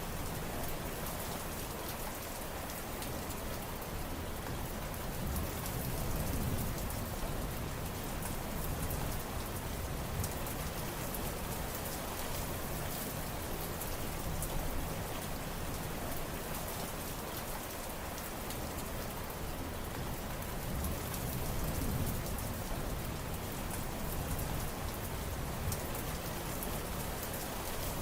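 Steady rain falling, a dense hiss of drops pattering on surfaces, with gentle swells in the low rumble every few seconds.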